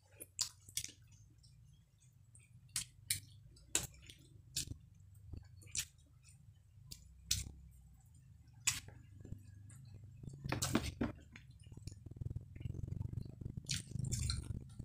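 Close-up mouth sounds of a person chewing young jengkol beans and rice: sharp wet smacks and clicks, roughly one a second. Near the end the sounds come thicker as more food is picked up and chewed.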